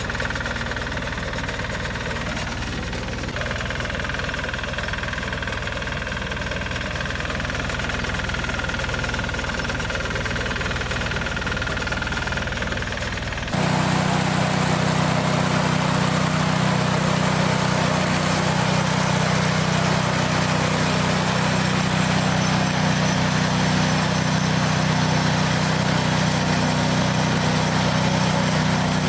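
Tractor engine and hay baler running steadily at work. About 13 seconds in the sound cuts to a different baler outfit, louder, with a steady low engine hum.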